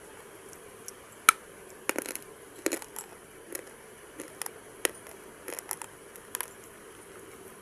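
Crisp crunching of something brittle: an irregular run of about a dozen sharp crackles, the loudest about a second in, with the last ones fading out after about six seconds.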